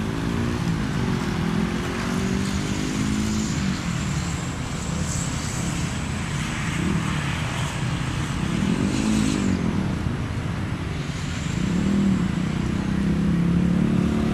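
Jet airliner engines running at high power, a steady rushing roar with a slowly wavering low drone and a faint high whine that fades about two-thirds of the way through.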